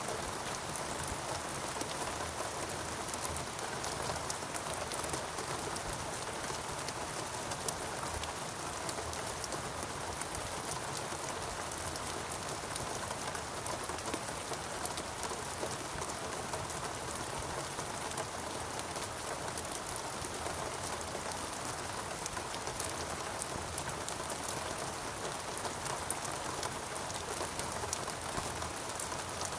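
Steady rain falling, an even rush with many single drop hits heard distinctly over it, unchanging throughout.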